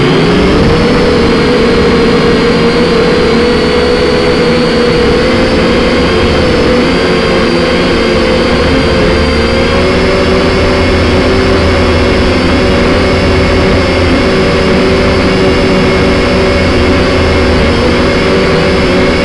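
Quadcopter drone's electric motors and propellers whining steadily, the pitch stepping slightly higher about halfway through, with wind rumbling on the microphone.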